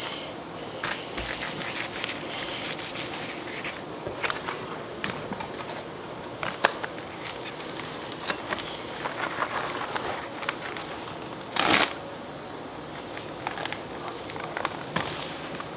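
Packaging being handled by hand: crinkling and rustling with scattered small clicks and taps, and one louder short rasp about three-quarters of the way through.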